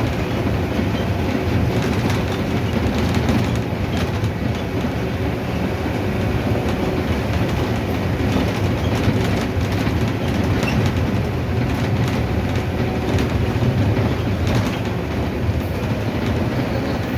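Mercedes-Benz OF-1519 city bus (Caio Apache Vip V body) under way: a steady diesel engine and road drone, with frequent small rattles and knocks from the body.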